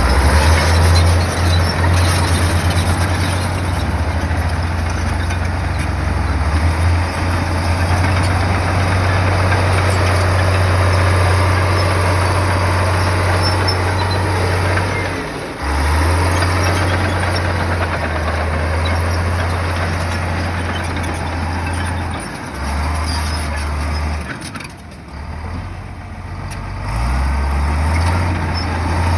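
Diesel engine of heavy earthmoving machinery working steadily, its deep note shifting with load a few times, dropping briefly about halfway through and again for a couple of seconds near the end.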